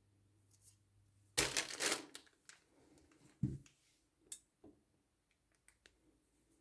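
Handling noises: a loud crinkling rustle about a second and a half in, a dull thump about two seconds later, then scattered light clicks and taps.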